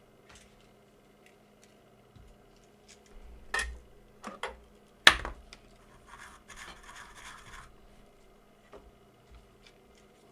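A few sharp clicks and knocks of small tools and parts handled on a workbench, the loudest about five seconds in, followed by about a second and a half of scratching.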